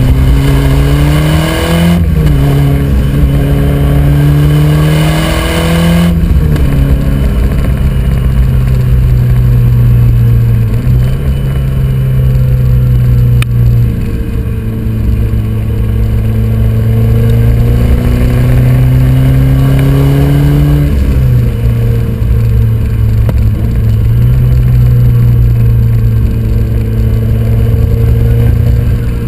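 Ford Escort RS Cosworth's turbocharged four-cylinder engine under hard acceleration, heard from on board. Its pitch climbs, drops at gear changes about two and six seconds in, holds fairly steady revs, then drops again at another shift around twenty-one seconds.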